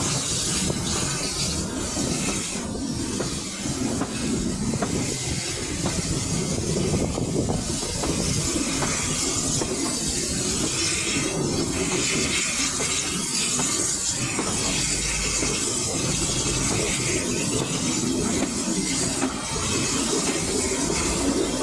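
Passenger train running along the track, heard from an open carriage window: a steady rumble of wheels on the rails with wind noise and hiss, and faint intermittent clicks from the rail joints.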